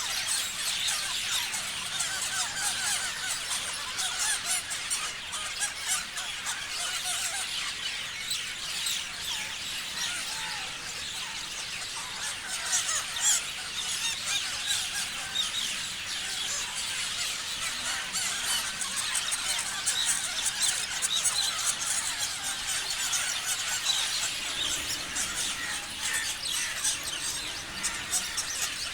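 Many parrots chirping and calling at once, a dense, high-pitched chatter of short overlapping calls that never pauses.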